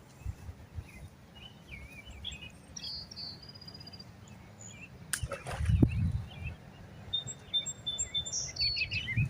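Small birds chirping and trilling in the background, with a single sharp knock about five seconds in followed by a second of low rumbling.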